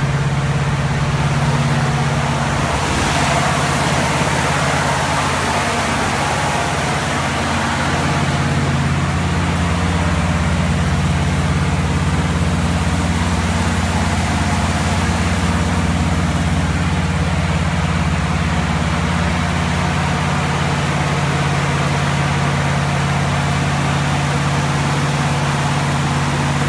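1955 GMC truck's 350 Chevy small-block V8 running steadily at an even speed.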